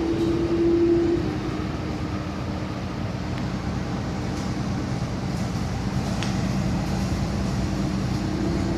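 City bus running, heard from inside the cabin: steady engine and road noise, with a drawn-out whine that fades about a second in and comes back near the end.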